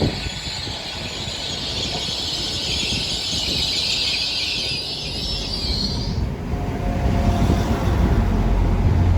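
Passenger train arriving at a station platform, its wheels and brakes giving a high, steady squeal that stops about six seconds in, over a low rumble of running gear and engines that grows louder toward the end.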